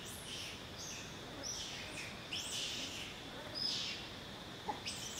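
Birds calling in the forest canopy: a string of short, high chirps, each falling in pitch, repeating every half second to a second.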